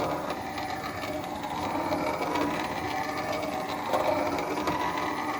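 Cylinder-head machine running, its cutter touching up the valve spring seats on an Oldsmobile V8 head: a steady mechanical whir with a wavering whine.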